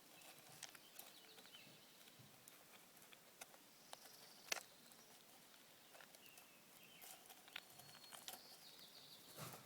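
Squirrel feeding in a bird feeder: faint, scattered clicks and taps, with one sharper click about four and a half seconds in.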